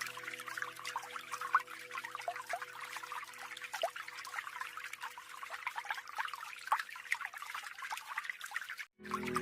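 Small natural waterfall on a mountain stream, splashing and trickling steadily with lots of little droplet plinks. Soft background music fades out over the first couple of seconds. Near the end the sound drops out for a moment and louder music comes in.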